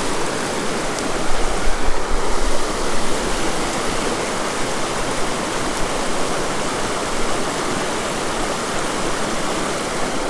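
Creek water rushing, a steady wash of noise with no break.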